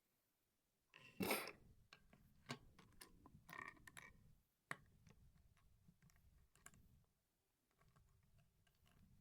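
Plastic LEGO pieces clicking and rattling as they are handled and snapped together, with a louder rattle of pieces about a second in and scattered small clicks after it.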